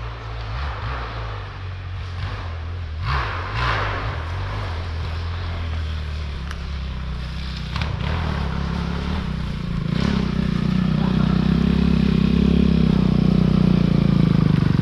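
Suzuki RM-Z four-stroke single-cylinder dirt bike engine running at low, steady revs, getting louder about ten seconds in, with a few sharp knocks along the way.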